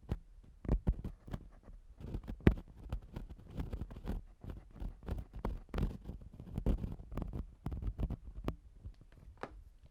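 Ear-cleaning ASMR sounds: an ear-cleaning tool scraping and rubbing against the microphone in quick, irregular strokes, with soft low thumps among the scratches.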